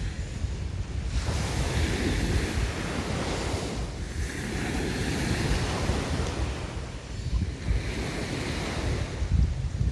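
Sea waves washing onto the shore, the surf swelling and fading every few seconds, with wind buffeting the microphone as a low rumble.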